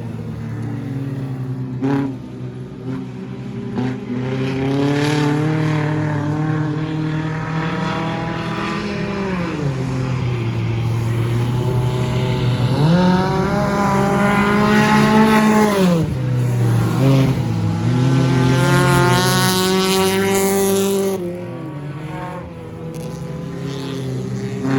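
Several stock car engines running around the track, revving up and down as cars go by. The loudest stretch comes in the second half, with engines rising in pitch as they accelerate past.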